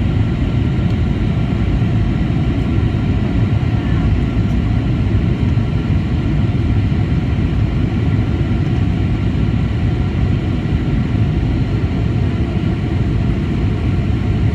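Steady cabin noise inside a Boeing 737-800: a constant deep rumble from its CFM56 jet engines and the airflow past the fuselage, with a few faint steady tones above it and no change in level.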